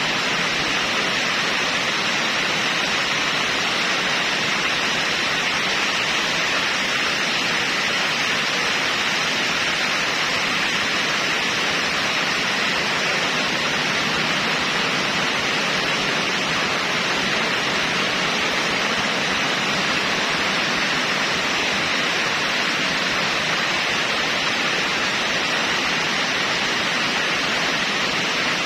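Steady, even hiss like static, strongest in the upper-middle range and unchanging throughout.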